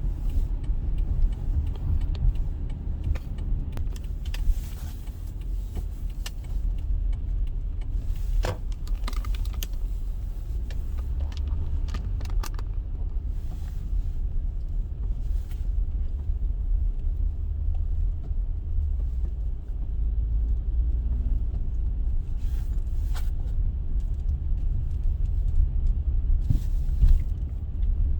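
Steady low road rumble of a car driving, heard from inside the cabin, with occasional small clicks and rattles.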